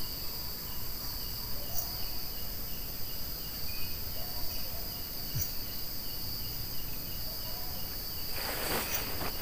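Night insect chorus: a steady high buzz with a cricket chirping a few times a second, and faint distant dog barking now and then. A rustle comes in near the end.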